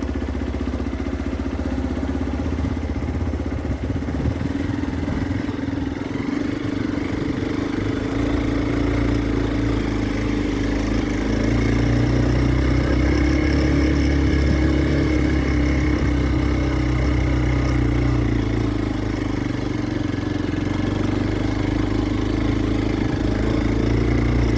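Motorcycle engine running under way, a steady hum that grows somewhat louder about halfway through.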